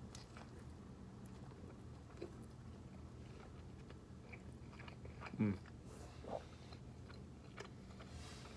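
A mouthful of cheeseburger being chewed, faintly, with small wet mouth clicks. About five seconds in, one short vocal sound comes from the eater.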